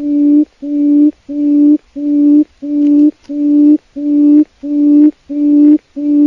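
Call of a wild forest quail: a steady series of low hoots on one pitch, each about half a second long, about three every two seconds.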